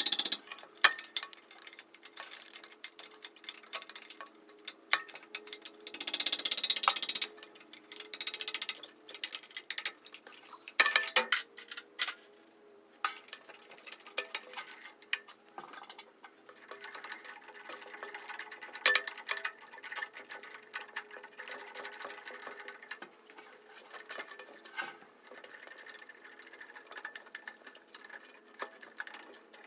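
Hand tools on car hardware: a ratchet wrench clicking in irregular runs, with metal clinks and short scraping bursts.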